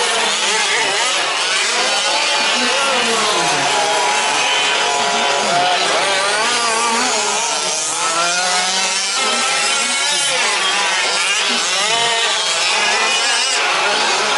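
Several 1/5-scale RC trucks' small two-stroke petrol engines racing together, their pitches rising and falling independently as each throttles up and off.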